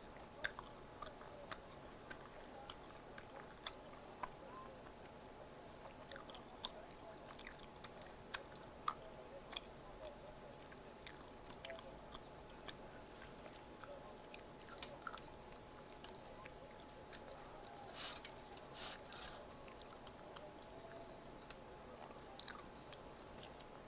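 Close-miked chewing of Korean snack food, with many sharp, separate crackles of crisp food between the bites and a denser run of crunching about eighteen seconds in. A faint steady hum runs underneath.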